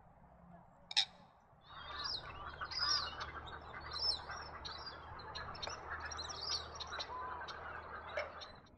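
A single sharp bird call, then many birds chirping and calling together in a dense, continuous chatter that begins just under two seconds in. A faint steady low hum runs underneath.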